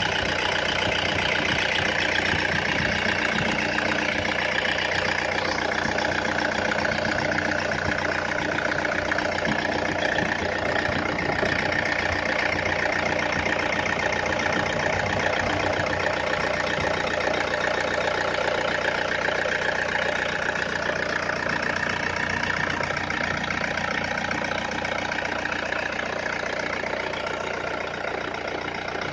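Toyota Innova's 2.5-litre four-cylinder turbodiesel, with a remapped ECU, idling steadily.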